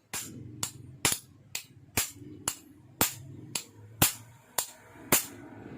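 A hammer striking a 3/8-inch swaging tool punch about eleven times at an even pace of roughly two blows a second, driving it into a copper tube end held in a flaring bar to expand it into a socket.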